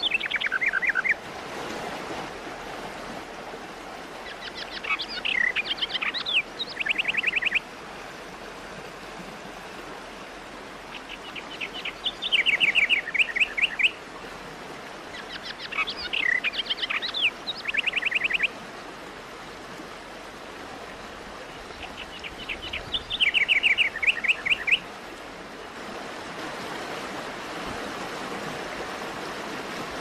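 A bird calling in repeated bouts roughly every five or six seconds, each a quick chatter of notes ending in a fast run of evenly spaced notes, over a steady rush of falling water.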